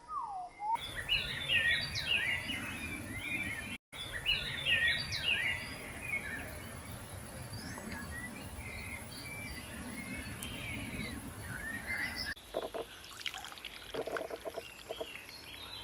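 Small birds chirping and singing over a steady rush of wind on the microphone, with a few short knocks near the end.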